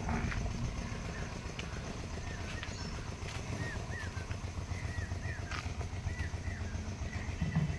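An engine running steadily with a low, pulsing rumble, while small birds give short falling chirps, repeated many times in the second half.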